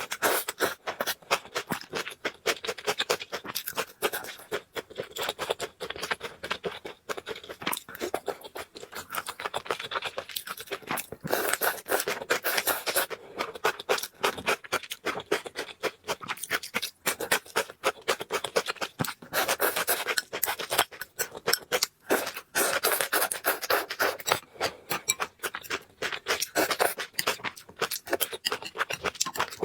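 Close-miked eating: food being chewed, heard as a dense, irregular run of crackling clicks that keeps going throughout.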